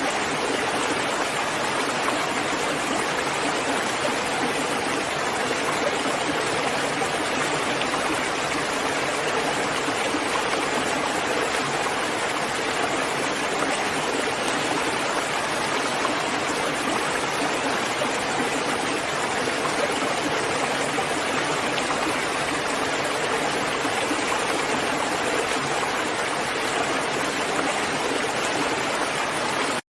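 Steady, even rain falling, a continuous hiss with no separate drops or thunder standing out. It cuts out abruptly at the very end.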